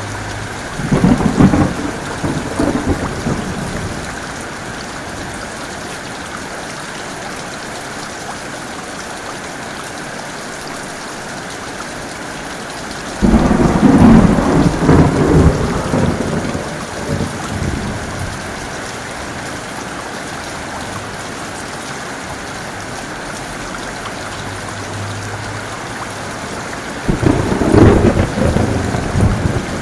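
Steady heavy rain with three peals of thunder: a short one about a second in, the loudest and longest starting abruptly about thirteen seconds in and dying away over several seconds, and another near the end.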